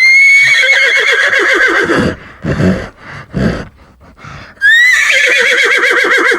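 Horse whinnying twice: a long, quavering neigh, a few short puffs of breath, then a second quavering neigh near the end.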